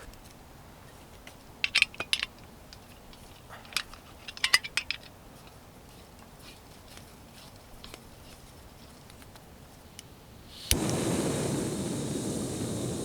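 Metal camp cookware clinking a few times. About eleven seconds in, a sharp click is followed at once by the steady rush of a camping gas stove burner catching and burning.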